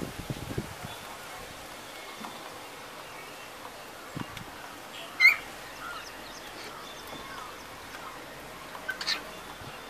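Cockatiel giving two short, sharp chirps, a loud one about five seconds in and a softer one near the end, with a few light knocks in the first second.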